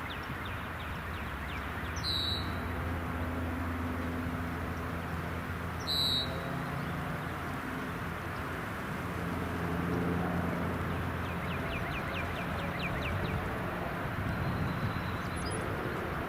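Steady low drone of a distant aircraft engine, with birds calling over it: two short high chirps and quick runs of rapid ticking trills near the start and near the end.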